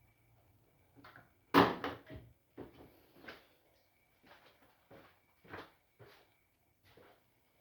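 Arctic washing machine in service mode with a suds-lock fault, making irregular knocks and clunks, which the owner calls bad noises. The loudest knock comes about one and a half seconds in, over a faint steady high whine.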